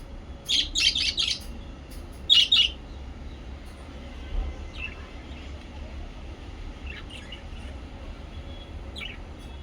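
Small pet parrots chirping: two loud bursts of quick, high chirps in the first three seconds, then a few scattered fainter chirps.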